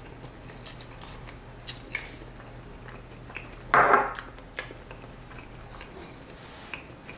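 A person chewing a mouthful of cheese-covered fries, with wet mouth sounds and small clicks. About four seconds in there is one brief voiced murmur from the eater.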